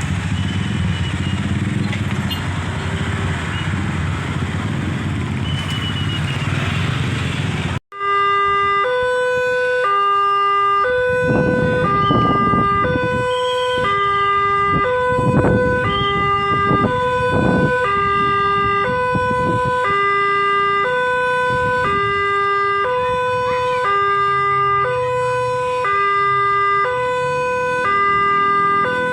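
Street traffic of motorcycles and cars for the first few seconds. Then, after a sudden cut, a railway level-crossing warning alarm sounds: an electronic two-note ding-dong that alternates high and low about once a second, while vehicles pass.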